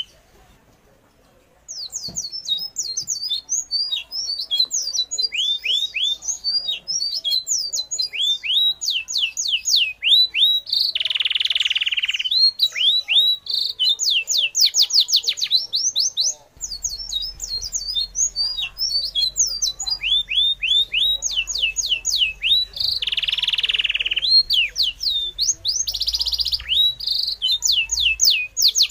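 Birds chirping in quick runs of short, high notes that each sweep downward, with a longer, harsher call twice. The chirping starts about two seconds in.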